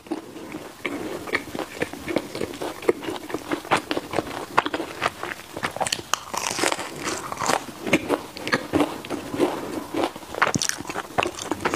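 Close-up biting and chewing of baked mochi bread balls, the crisp crust giving many small, irregular crunches.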